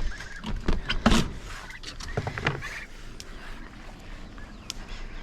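A few sharp knocks and clunks from handling a container while water is put out for poultry, mostly in the first two and a half seconds, with faint chirps from the birds.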